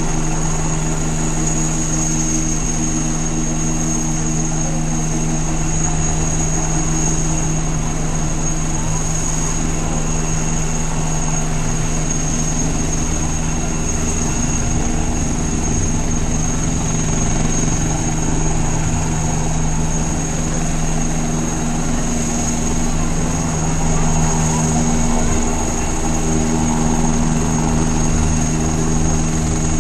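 Eurocopter Tiger attack helicopter hovering, its rotors and turbine engines running steadily with a constant high-pitched whine.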